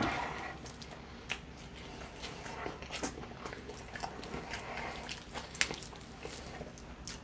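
Close-up biting and chewing of crispy fried chicken, with scattered sharp crunches and wet mouth sounds as the meat is torn off the bone.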